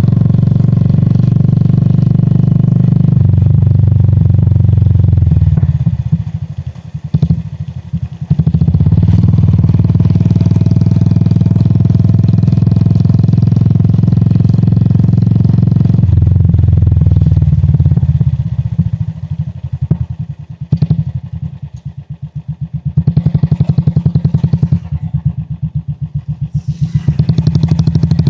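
Royal Enfield Classic 350's single-cylinder engine and exhaust running under way. The note is steady, then drops back twice, briefly about six seconds in and for longer from about eighteen seconds. Each time the separate exhaust beats come through. It builds again near the end.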